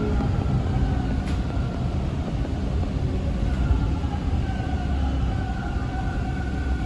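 Toronto subway T1 car's motors whining as the train brakes into a station, the whine slowly falling in pitch over a steady low rumble heard inside the car.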